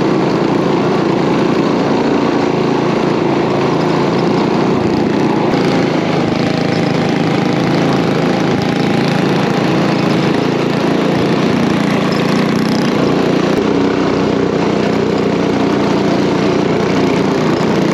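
Coleman mini bike's small single-cylinder engine running steadily while riding.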